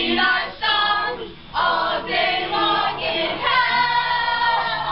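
Several voices singing together in a chant-like song, with a short break about a second and a half in.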